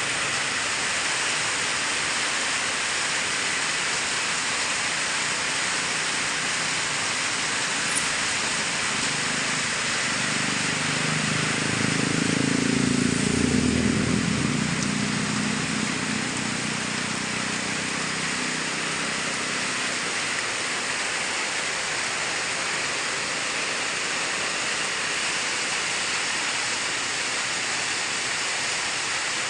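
Steady hiss of heavy rain. A vehicle engine swells up and fades away between about ten and sixteen seconds in.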